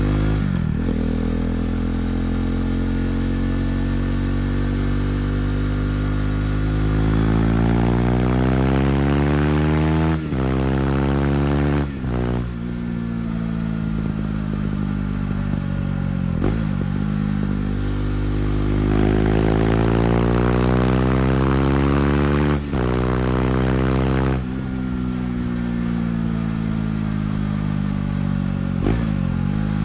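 KTM 390 Duke's single-cylinder engine through an Akrapovic exhaust, ridden in traffic. It accelerates through the gears, the pitch climbing and dropping sharply at each of several shifts. It winds down as the bike slows near the end.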